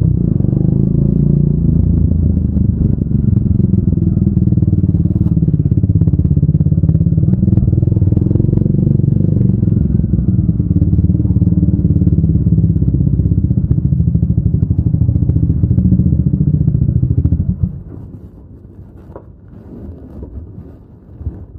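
Triumph Speed 400's single-cylinder engine and exhaust running steadily at low revs, then shut off abruptly about 18 seconds in. A few faint clicks follow.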